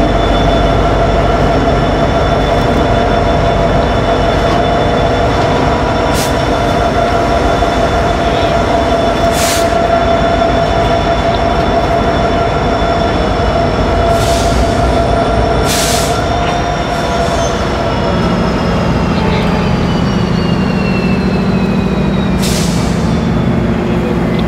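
Norfolk Southern freight train passing: diesel locomotives running by, then freight cars rolling, with a loud steady rumble. Several steady high-pitched tones sound over it and slide down in pitch over the last several seconds, with a few short hissing bursts along the way.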